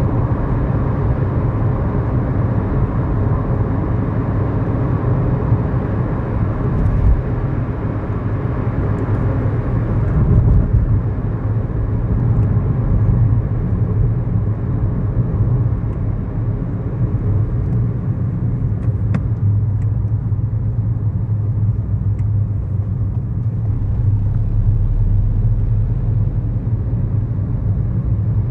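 A 2011 Kia Morning's 999 cc four-cylinder petrol engine running steadily, with tyre and road noise, heard from inside the cabin while driving.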